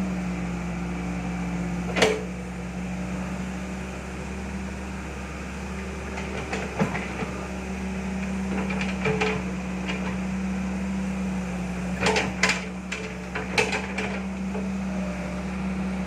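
A steady motor hum with a handful of sharp knocks, one about two seconds in and a cluster about three-quarters of the way through.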